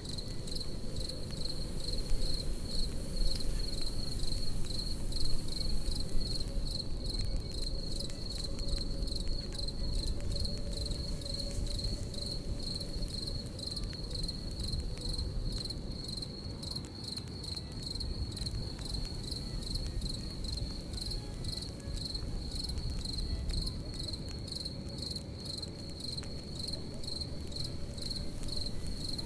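Crickets chirping in a steady high trill over a campfire: the fire crackles, with frequent sharp pops and a low, even rush beneath.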